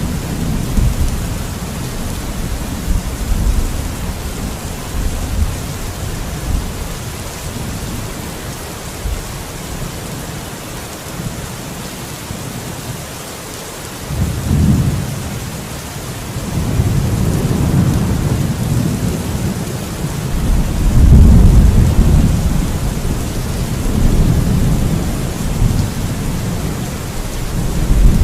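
Steady rain with rolling thunder. The rumble eases to a lull midway, then swells again from about halfway through, loudest around three-quarters of the way in.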